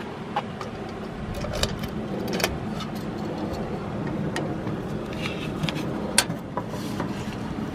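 A vehicle running steadily with a low hum, with scattered sharp clicks and rattles throughout.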